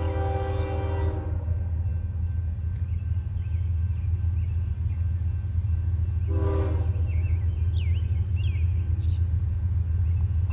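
Union Pacific diesel freight locomotive blowing its multi-chime air horn: a long blast that ends about a second in, then a short blast past the middle, over the steady low rumble of the approaching train. Birds chirp faintly in between.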